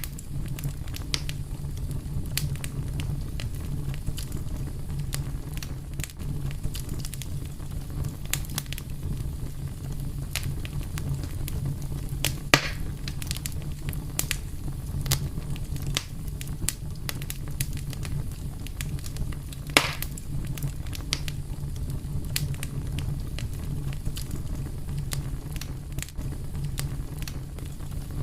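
Wood fire burning, with a steady low rumble and frequent scattered crackles and pops, two of them louder, about midway and about two-thirds of the way through.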